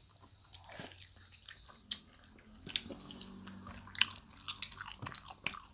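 Close-miked biting and chewing of soft, soupy Korean fish cake (eomuk): wet mouth clicks and smacks, scattered and irregular.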